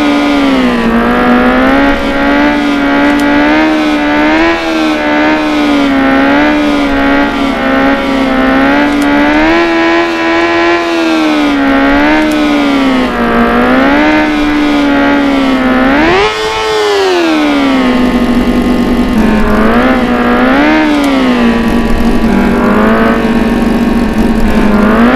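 Motorcycle engine held at high revs, its pitch wavering unevenly, with two sharp rev-ups about two-thirds of the way through and at the very end.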